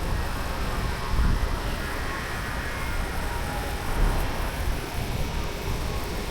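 Street traffic: a steady low rumble of vehicle engines and tyres, swelling briefly about a second in and again about four seconds in as vehicles pass.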